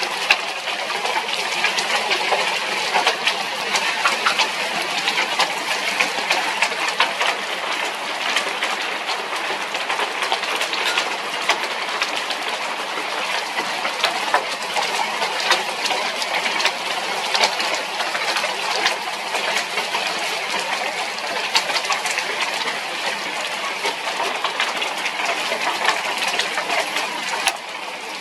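Heavy storm rain falling steadily, with a dense patter of sharp drop impacts close by.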